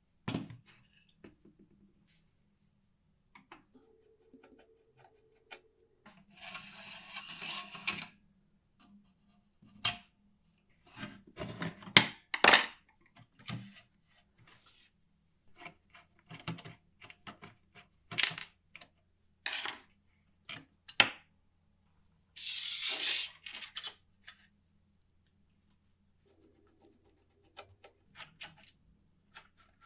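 Small metal parts of a 1949 Olympia typewriter being handled and fitted on a workbench: scattered sharp clicks and clinks of metal on metal. There are two longer rasping sounds of about a second and a half each, one about six seconds in and one about twenty-two seconds in.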